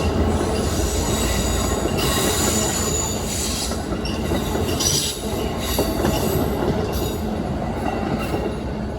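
A train rolling past, its steel wheels squealing against the rails in high-pitched spells that come and go over a steady rumble.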